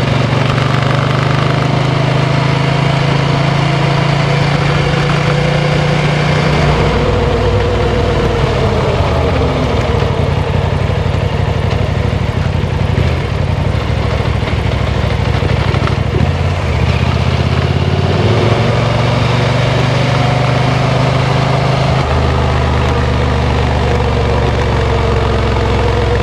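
KTM 890 Adventure R Rally's parallel-twin engine running under way, its pitch shifting up and down a few times as revs change.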